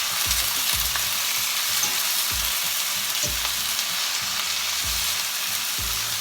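Asparagus with onions and garlic frying in a pan: a steady sizzle, with a few soft low thuds.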